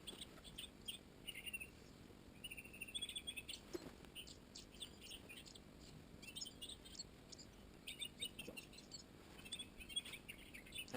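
Faint forest birdsong: scattered short chirps and twittering calls over quiet background.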